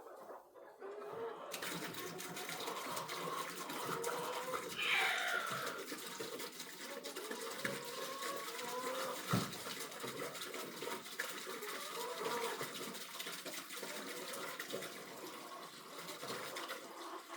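Water running into a livestock water container as it fills, a steady rushing hiss that starts about a second and a half in and runs until near the end. A single knock comes about halfway through.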